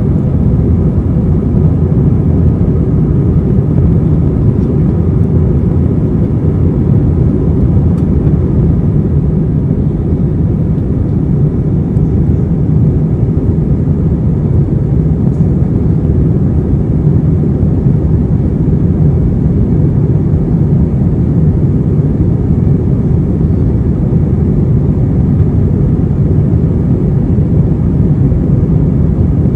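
Airbus A321 jet engines running, a loud steady low rumble heard inside the passenger cabin, with no change in pitch or level.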